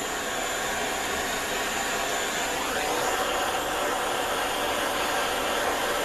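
Handheld gas torch burning with a steady rushing hiss, heating the bare metal of a Dodge 4.7 V8 engine to drive out trapped moisture before priming.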